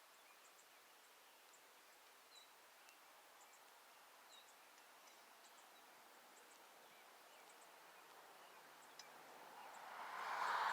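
Faint outdoor ambience with scattered brief, high bird chirps from small birds. Near the end, a broad rushing noise swells up loudly.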